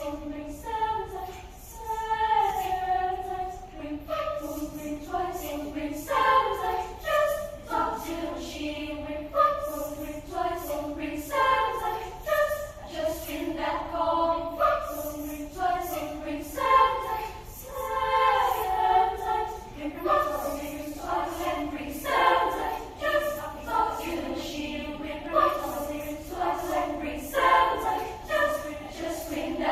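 Children's choir singing in several parts, seemingly unaccompanied, with sustained, flowing phrases in harmony.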